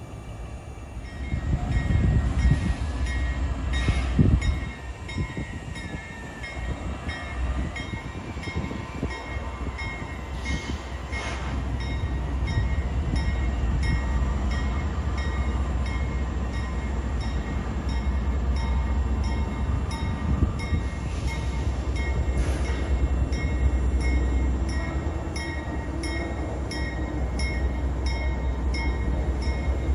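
Railroad train running with a steady low rumble, with a faint, regular ticking about twice a second throughout.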